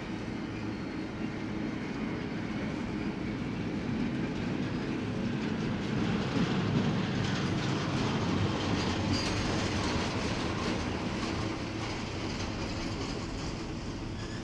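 Freight train cars rolling past on steel rails, wheels clicking over the track with a steady rumble that swells louder through the middle of the stretch and eases slightly near the end.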